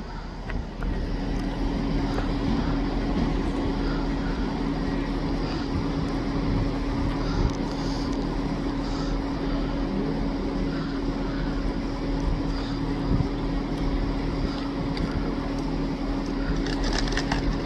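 Electric InterCity 225 train running into a station platform behind its Driving Van Trailer, with a steady rumble and a constant hum that sets in about a second in. A few light clicks come near the end.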